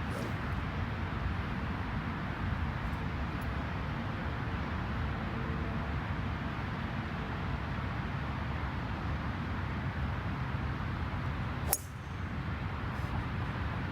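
Steady low background rumble, with one sharp crack near the end: a driver striking a golf ball off the tee.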